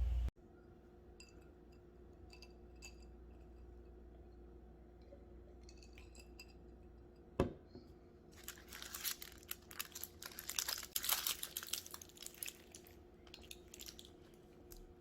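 Kitchen handling sounds: scattered light clicks, a single sharp knock about halfway through, then several seconds of dense crackling and crinkling.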